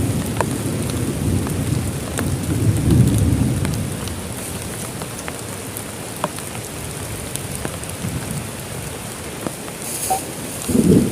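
Heavy rain falling steadily, with individual drops ticking sharply. A low roll of thunder rumbles through the first few seconds and builds again at the very end.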